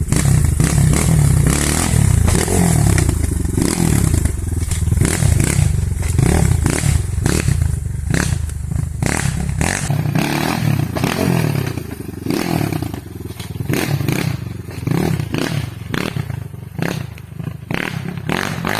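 Gas Gas EC200 two-stroke enduro motorcycle being ridden off-road, its engine revving up and falling back again and again, with frequent clatter and knocks from the bike over rough ground.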